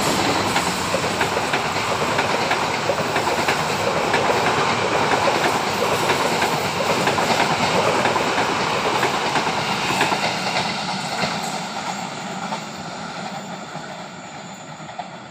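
A train's carriages rolling past close by, the wheels clacking over the rail joints. The sound fades away over the last few seconds as the train moves off.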